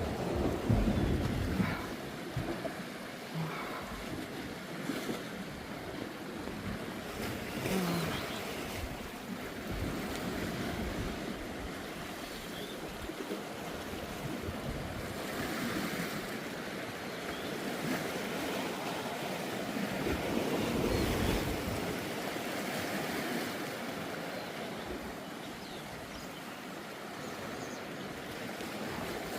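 Sea waves washing against coastal rocks: a steady surf hiss that swells and eases. Wind gusts buffet the microphone with a low rumble near the start and again about twenty seconds in.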